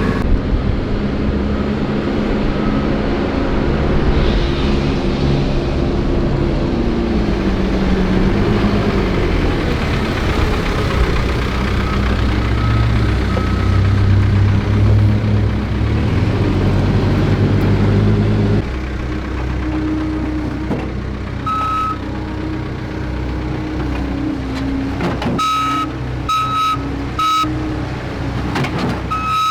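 Heavy construction equipment's engine running with its pitch shifting under changing load. The engine sound drops abruptly about two-thirds through, and from then on a reversing alarm beeps repeatedly.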